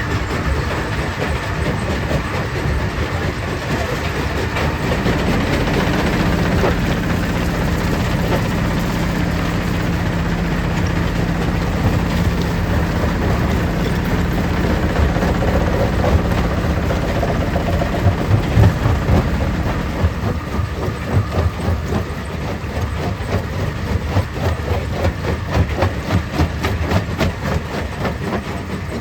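Stone crusher plant running, a continuous heavy rattle and grinding of rock through the machinery. A steady low hum runs through the middle, and in the last third the noise turns into a quick, regular clatter.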